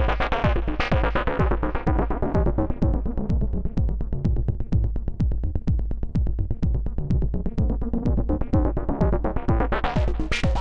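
Eowave Weather Drones 1.5 synth voice playing a folded triangle-wave line over a techno drum-machine beat, with a steady kick pulse. The synth's tone grows darker and duller a couple of seconds in, then opens up bright again near the end.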